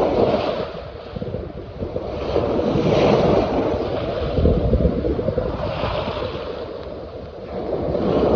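Hudson River water washing and splashing in waves that swell and ease every few seconds, with wind rumbling on the microphone.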